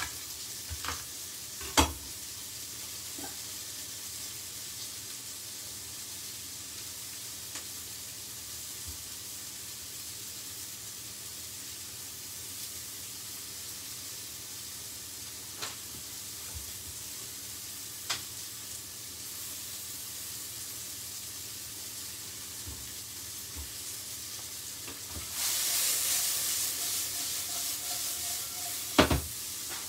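Red onion and pepper frying in coconut oil in a pan, a steady sizzle. Near the end the sizzle grows louder for a few seconds as the pan is lifted and tossed, then a knock as it is set back on the hob. A single sharp knock about two seconds in.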